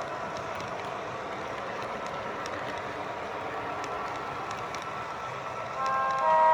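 MTH Proto-Sound 3 O-gauge GP-9 model locomotive running, its speaker playing a steady diesel engine sound with faint scattered clicks. Near the end the model's horn starts to blow.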